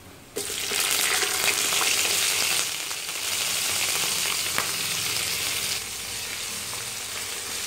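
Raw prawns hitting hot oil and garlic in a non-stick frying pan, setting off a sudden loud sizzle about half a second in. The sizzle eases in two steps as the pan cools, and a wooden spoon stirs the prawns near the end.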